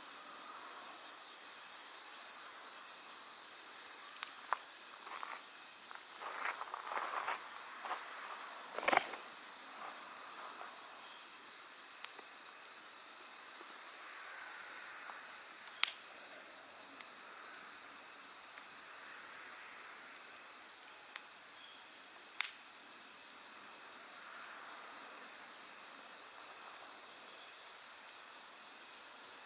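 Wood fire crackling, with a cluster of crackles and snaps and a few single sharp pops, over a steady night insect chorus with regular pulsing chirps.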